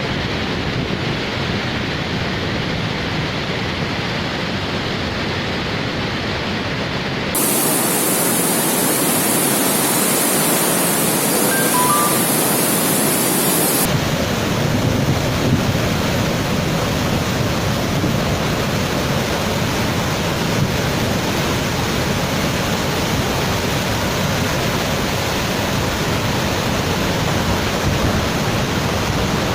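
Athirappilly waterfall in flood after heavy rain: a loud, steady rush of falling water. Its tone changes abruptly about seven seconds in, turning brighter, and changes back about fourteen seconds in.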